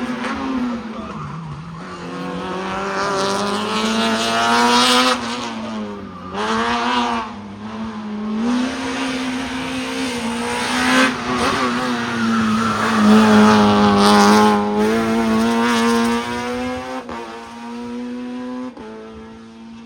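Hillclimb race car engine under hard acceleration, its pitch climbing through the gears with sharp drops at each gear change. It grows louder, is loudest about two-thirds of the way through, then fades as the car moves away.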